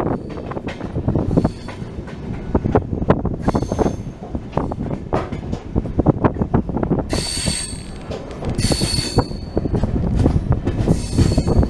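Passenger train coaches running on the rails: dense, irregular wheel clatter, with three bursts of high-pitched wheel squeal in the second half, the kind made by wheels grinding against the rail on a curve.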